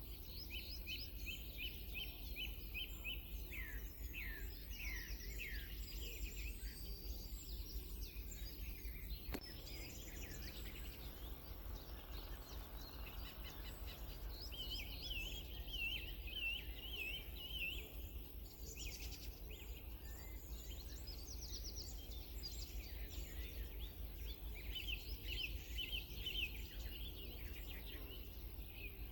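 Small songbirds singing in repeated short phrases of quick trilled and chirping notes, over a steady low rumble.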